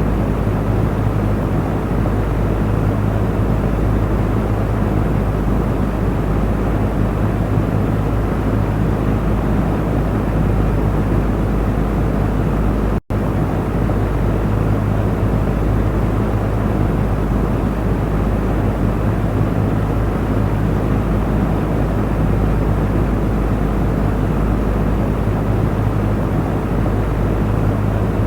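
Electric fan running steadily: an even rushing whir of moving air over a low motor hum. The sound cuts out for an instant about halfway through.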